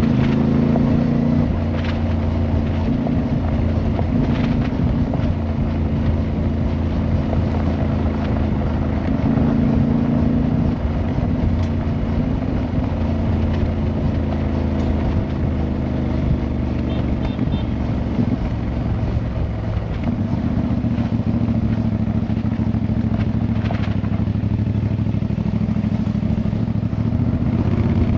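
Motorcycle engine running under way, heard from the bike; its note steps up and down several times with throttle and gear changes, over road and wind noise.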